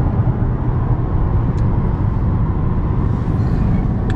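Steady road and engine noise heard from inside a moving car, a low rumble with a couple of faint ticks.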